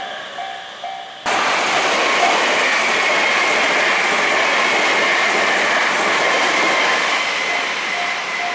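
A Japanese level-crossing bell ringing in quick, evenly spaced dings. About a second in, it cuts to a Meitetsu limited-express electric train passing close by: a loud, steady rush of wheels on rail with a high whine that slowly falls in pitch. The crossing bell starts ringing again near the end.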